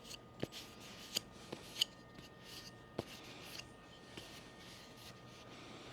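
Faint rubbing as oil is wiped onto a wooden spatula, with a few light clicks and taps in the first three seconds.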